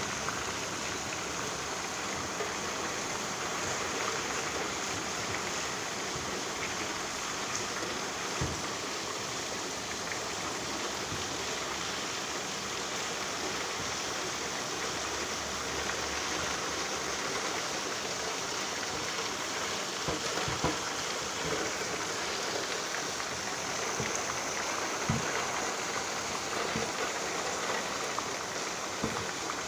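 Steady rain falling, an even hiss of water, with a few short knocks scattered through.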